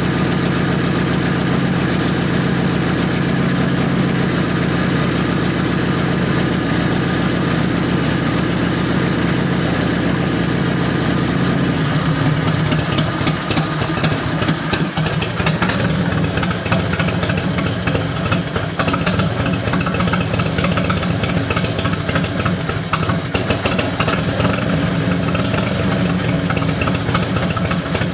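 Harley-Davidson Road King's air-cooled Twin Cam 88 V-twin engine idling steadily. About twelve seconds in, the sound turns rougher and less even.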